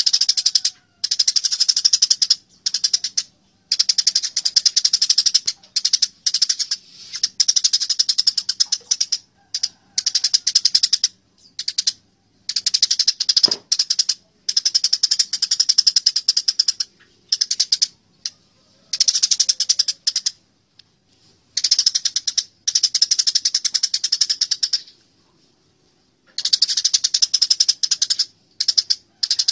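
Eurasian tree sparrows chattering while fighting: rapid, harsh, high-pitched chatter in bouts of one to two seconds with short breaks between them.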